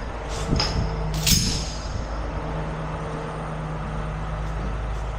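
Heavy tow truck's diesel engine running steadily, with two short hisses about half a second and a second and a bit in.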